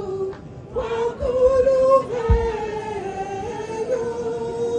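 Slow singing with long held notes that move gently between a few pitches. A short low thump comes about two seconds in.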